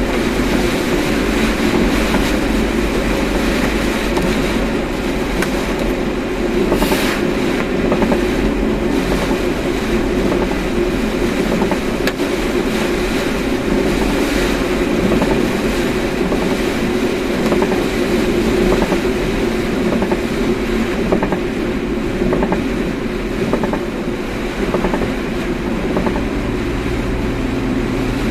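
Steady road and engine rumble inside a moving car, with a brief swell of noise about seven seconds in.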